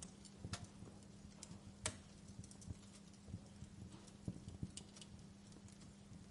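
Wood fire in a fireplace crackling: faint, irregular snaps and pops of burning logs, one sharper pop about two seconds in, over a soft bed of noise and a steady low hum.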